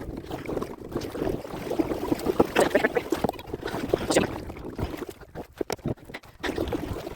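Irregular knocks, clicks and rustling from gear being handled in a fishing kayak.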